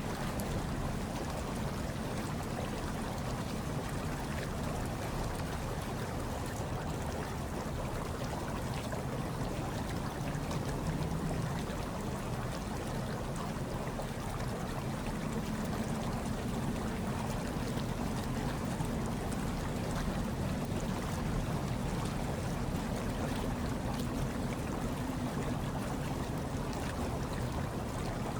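Hot tub water churning and bubbling in a steady, deep-toned rush that doesn't change.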